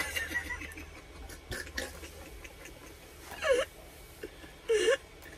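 Close-miked eating sounds: chewing and lip-smacking clicks from a person eating. Two short voice-like sounds come from the eater, one about three and a half seconds in and one near the end.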